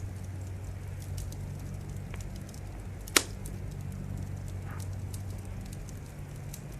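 Wood fire crackling: scattered small snaps and one sharp, loud pop about three seconds in, over a steady low rumble.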